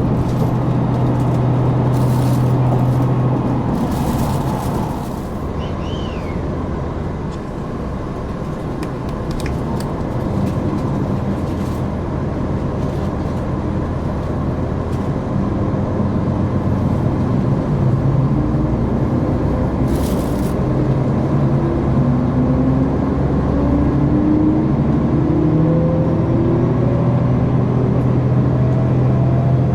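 Diesel engine of a KiHa 261 series diesel railcar, heard from inside the passenger car while the train is under power. A steady low drone eases off a few seconds in, then a whine rises steadily in pitch through the second half as the train accelerates, with a few sharp clicks along the way.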